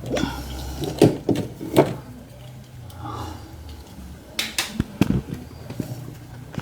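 Irregular knocks, clicks and clatter of hand tools and parts being handled on a washing machine during disassembly, with the loudest knocks about a second and just under two seconds in.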